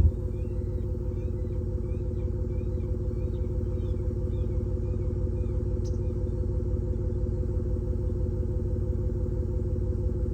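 Simulated Mercedes-AMG S63 V8 exhaust sound from an electronic exhaust speaker on a Toyota Prius PHV, holding a steady, even idle rumble.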